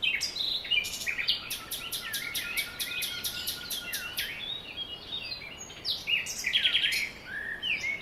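Birds chirping: a dense run of quick, high chirps and short sliding whistles.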